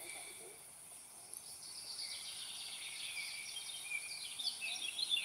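Birds singing outdoors: from about two seconds in, a busy run of quick, high chirps that grows louder, over a steady high-pitched hiss.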